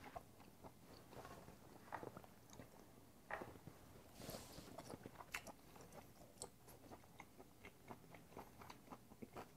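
Faint chewing and mouth sounds of a person eating raw beef, with scattered small clicks throughout.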